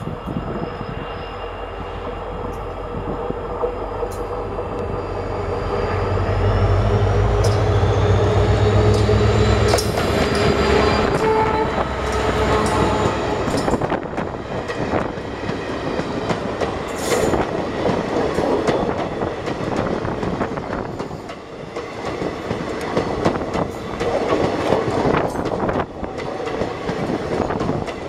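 A WDP-4 diesel locomotive's two-stroke EMD engine drones louder as it hauls a passenger train past, the deep engine sound peaking about seven to ten seconds in. Then comes the steady rumble and clatter of coach wheels on the rails heard from aboard the moving train, with irregular clicks over rail joints.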